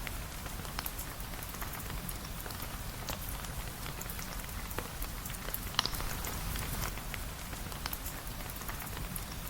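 Steady rain with a crackling fireplace: an even hiss of rain with scattered sharp pops and ticks, one louder pop about six seconds in.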